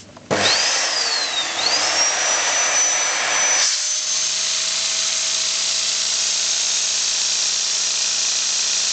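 A vacuum cleaner switches on about a third of a second in and drives a vacuum-powered LEGO pneumatic engine, giving a loud whir. A high whine rises, dips, then climbs to a steady high pitch. Near four seconds in the noise drops back to a steadier hum with a lower steady tone.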